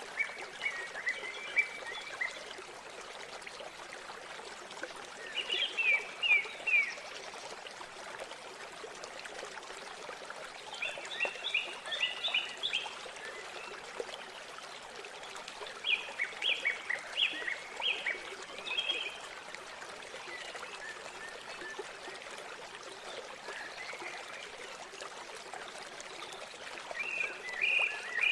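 Steady rush of flowing river water, with birds calling in clusters of quick, high chirps every few seconds.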